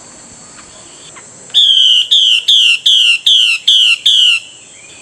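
Chinese hwamei (Garrulax canorus) singing a run of seven loud repeated whistled notes, each sliding down in pitch, about two and a half a second, starting about a second and a half in and stopping near the end. A steady high-pitched hiss runs underneath.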